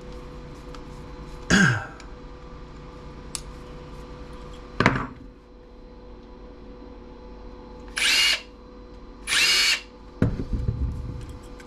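Cordless power drill or electric screwdriver whirring in two short bursts, about eight and nine and a half seconds in, driving out the brass standoff screws of a CRT TV's tuner. Two sharp clunks come about one and a half and five seconds in.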